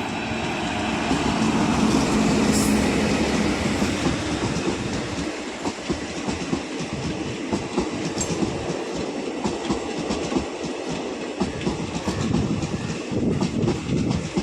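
Train running along the track, a steady rumble with the wheels clattering over the rail joints.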